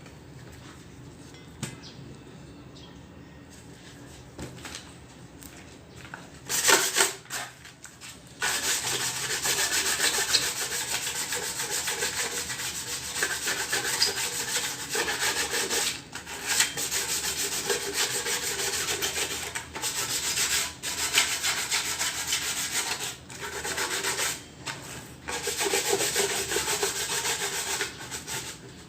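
Sandpaper being rubbed hard over a metal exhaust manifold to take it back to clean, bare metal. A short scrape comes a few seconds in, then long stretches of steady rasping with brief pauses.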